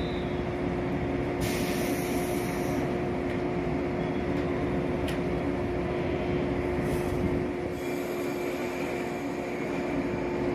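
A train running through the station: a steady rumble of wheels on rails under a constant hum, with a short hiss about a second and a half in.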